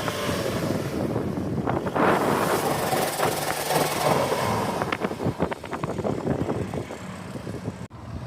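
Car engine and exhaust noise at a car meet, swelling about two seconds in as a car passes, followed by a run of short sharp crackles.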